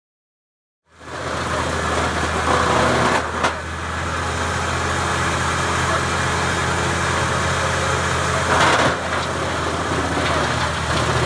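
Engine of a Morbark 2036 wood chipper running steadily after repair, cutting in abruptly about a second in. It surges briefly twice.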